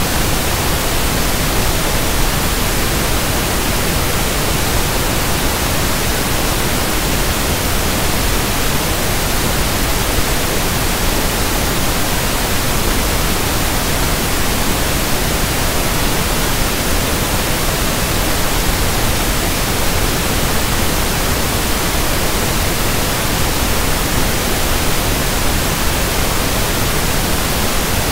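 Synthetic pink noise (1/f noise): a steady, even hiss with no changes.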